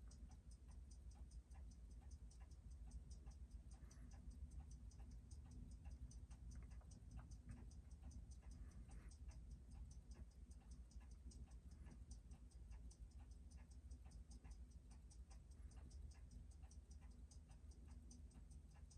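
Faint, fast, even ticking of a Seiko 6105 automatic watch movement running while it is checked for rate and amplitude on a timegrapher, over a low steady hum.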